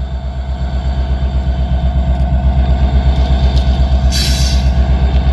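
Norfolk Southern diesel locomotive engine idling with a steady, low throbbing pulse. A short burst of compressed-air hiss about four seconds in.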